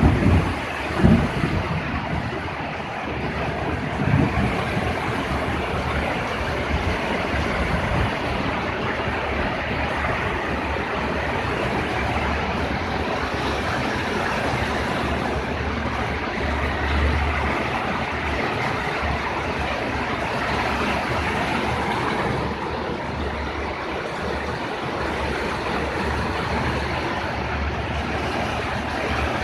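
Steady rain falling, an even hiss without a break, with a few low thumps in the first few seconds.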